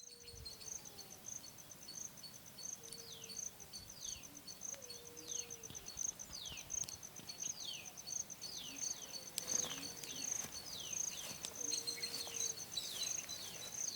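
An insect, cricket-like, chirping in a high, fast, even pulse, while a bird repeatedly gives short, quickly falling calls; a lower wavering call comes in now and then.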